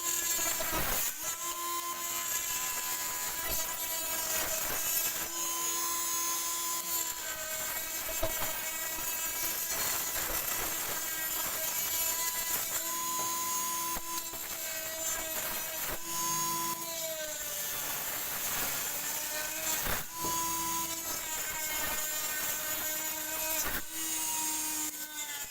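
Small hand-held 12 V power tool built on a 550 DC motor, running at high speed and working material, with a steady whine over a gritty hiss; it starts and stops several times, its pitch sagging briefly as the load bites.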